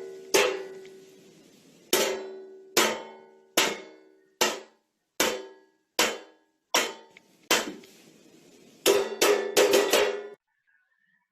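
A metal spoon striking a metal baking pan again and again, each hit ringing and dying away. About nine even strikes come under a second apart, then a quick flurry of hits before it stops.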